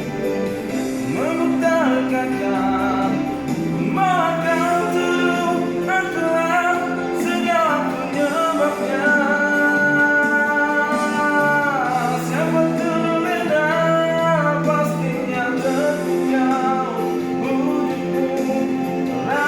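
A sung pop song: a lead vocal carries the melody, holding several long notes, over steady instrumental backing.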